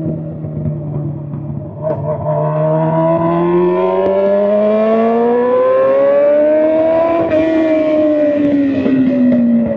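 Honda CBR600's straight-piped inline-four engine under acceleration: the note holds steady for about two seconds, climbs smoothly for about five seconds, then eases back down near the end as the throttle comes off.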